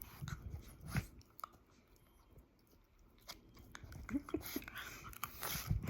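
French bulldog play-biting and chewing, with scattered mouth clicks and low snuffling rumbles, and a few short pitched grunts about four seconds in.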